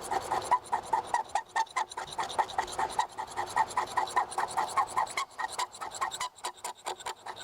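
Knife blade scraped rapidly over a magnesium block, about five short strokes a second with a slight squeak, shaving off a pile of magnesium for fire lighting. After about five seconds the strokes turn sparser and irregular.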